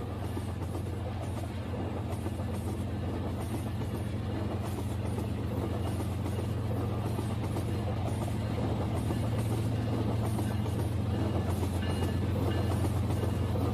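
Rail King toy train running along its plastic track: a steady motor hum with wheel and track rattle, growing gradually louder.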